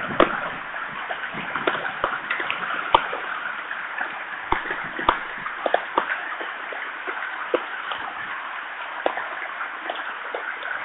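Heavy rain: a steady hiss with frequent irregular sharp taps of drops.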